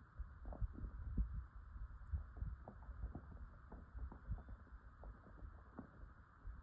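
Irregular low rumbling thumps over a faint steady hiss.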